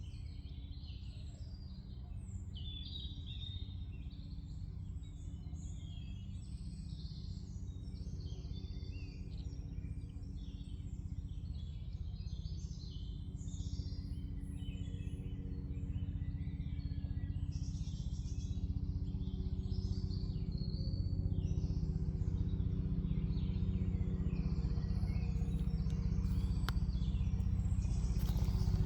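Many songbirds singing and chirping in woodland, a dense mix of short calls over one another, over a low steady rumble that grows louder toward the end.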